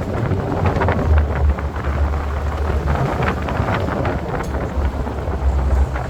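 Jeep driving along with wind buffeting the microphone: a steady low rumble of engine and road under gusty, fluttering wind rush.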